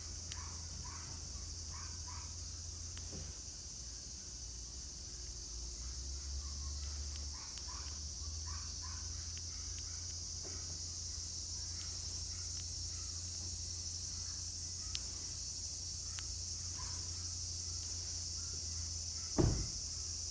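Steady, high-pitched chorus of insects singing, with short faint chirps scattered through it. A single low thump comes near the end.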